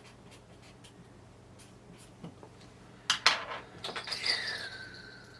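Soft taps and rubbing of objects being handled. About three seconds in come sharp metallic clicks and a jangle of small bells, with a ringing tone that slides down and holds: a shaman's ritual bells being picked up and shaken.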